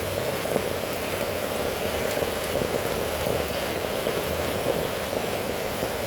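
Heavy rain falling steadily: an even, dense rush with a few faint drop ticks.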